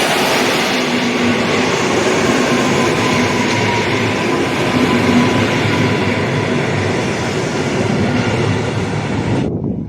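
A train passing close by: a loud, steady rush of wheel and rail noise with faint whining tones in it. It cuts off suddenly near the end.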